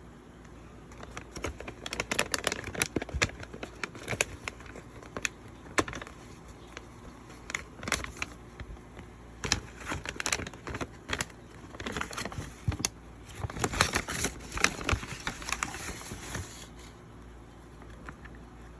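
Irregular clicks and taps of hands handling objects close to the microphone, with a denser crackling stretch for a couple of seconds about three-quarters of the way through.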